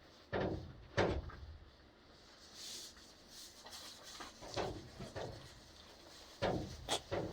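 A handful of short knocks and bumps: two close together about a second in, a few fainter ones in the middle, and another cluster near the end.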